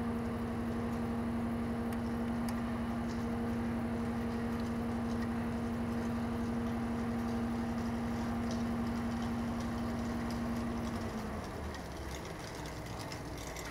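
A motor-driven machine running at a steady hum, then winding down and stopping about eleven seconds in.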